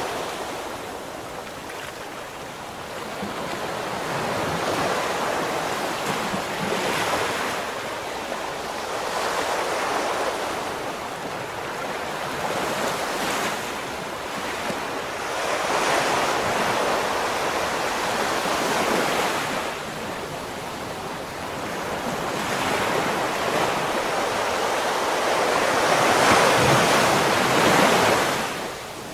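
Ocean waves breaking and washing on the shore, swelling and easing every few seconds, with the loudest break near the end. Some wind rumble on the microphone.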